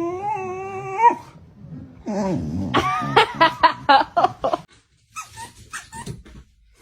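Dog whining in a long held note that rises at the end. About two seconds in comes a wavering whine, then a quick run of short yips, about five a second, and fainter high yelps near the end.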